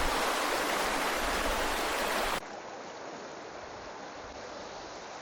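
Rushing water of a forest stream, loud and steady, cut off abruptly about two and a half seconds in by a quieter steady rush.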